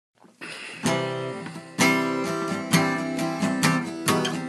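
Acoustic guitar strumming chords in a song intro, fading in at the start and struck roughly once a second.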